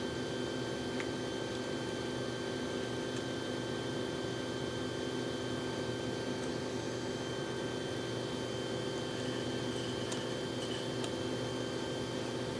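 Steady machine hum, like a fan or appliance running, with a few faint light clicks.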